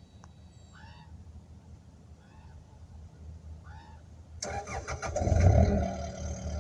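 A diesel engine on the excavator or dump truck starts up about four seconds in, swells briefly and settles into a steady run. Before it there is only a low rumble and a few short chirps.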